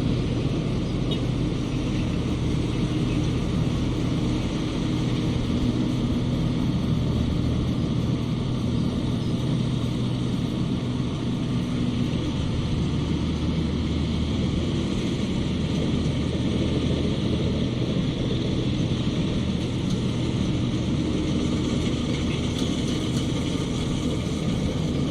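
Rice combine harvester running steadily at work: an even engine drone with steady low tones and a haze of machinery noise, no change in pace.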